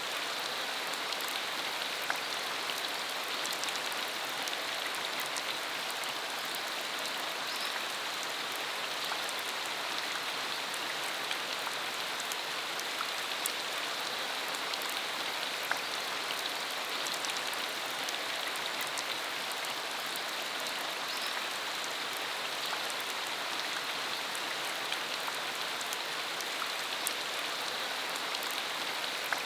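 Steady rain falling on a country dirt road: an even hiss with many scattered, sharper ticks of single drops.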